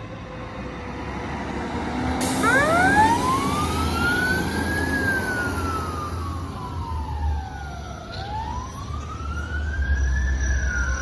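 Fire truck siren starting about two seconds in, winding up to a high wail, falling slowly, then winding up again and beginning to fall near the end, over the deep rumble of the truck's engine.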